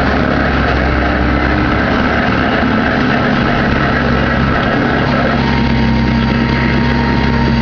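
Compact excavator's diesel engine running steadily under work, with a steady hydraulic whine over the engine hum.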